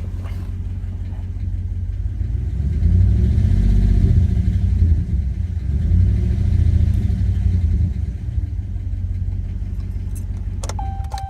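Hot-started 5.7 L Hemi V8 of a 4th-gen Ram pickup idling, revved up twice and let back down to idle, then switched off at the very end. The truck is being run for a ticking noise it makes on a hot start.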